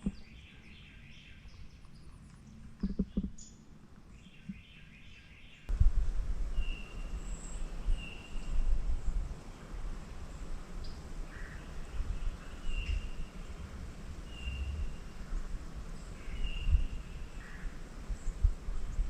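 A songbird chirping, short high notes repeated every second or two, over a low rumble on the microphone that starts abruptly about six seconds in.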